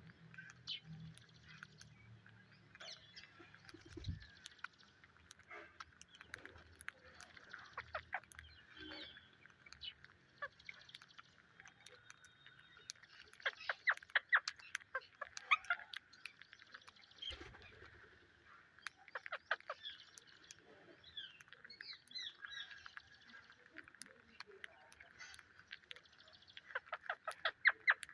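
Parakeets calling: several bursts of rapid, evenly repeated chattering notes, loudest a little before halfway and again near the end, with scattered higher chirps between them.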